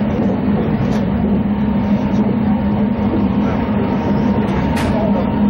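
Passenger train running, heard from inside the car: a steady low drone and rumble of running gear and wheels on track, with a brief sharp click near the end.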